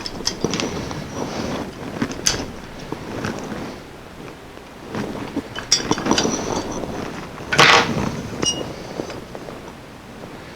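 Handling noises from taking apart a neon sign: irregular clicks, knocks and short scrapes as a burned-out glass neon tube section is worked loose from its mounts, with a louder scrape or rattle about three-quarters of the way through.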